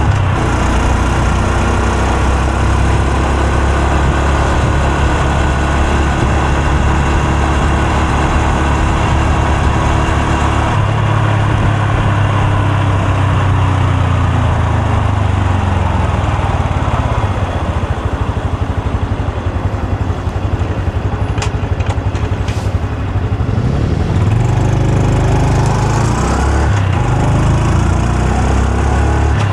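Honda Super Cub C125's air-cooled 125 cc single-cylinder engine and exhaust, ridden. The revs fall from about ten seconds in and the engine runs low and quieter, near idle, past the middle. Then it picks up with rising revs near the end.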